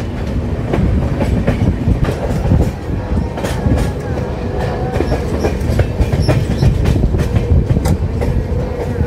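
Madhupur Humsafar Express passenger coach running along the track, its wheels clattering over rail joints, heard from the open coach door. A faint steady whine joins in about halfway through.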